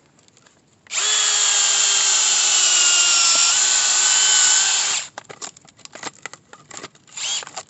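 Power drill spinning a screw-cone firewood splitter bit for about four seconds, a steady motor whine that sags slightly in pitch midway under load, then stops. Light knocks and rustling of wood being handled follow.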